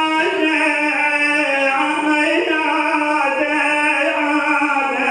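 A male munshid's voice holds one long melismatic note of a Shia elegy chant, with small ornamental turns in the pitch and a slight fall toward the end.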